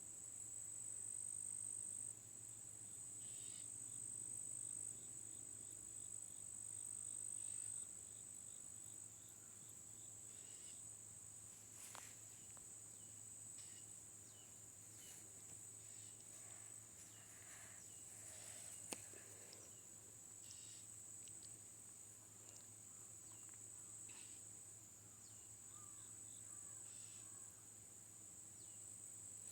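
Crickets or similar insects trilling in one steady, high, unbroken chorus, with a few short higher chirps scattered through it and a single sharp click about two-thirds of the way in. A faint low hum runs underneath.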